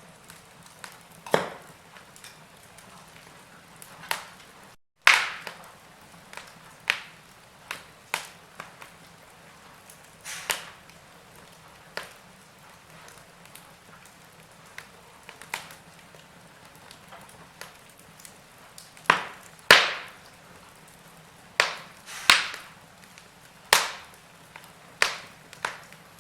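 Firewood logs burning with an irregular crackle: sharp pops and snaps, a few of them loud, over a soft steady hiss. The sound cuts out completely for a split second about five seconds in.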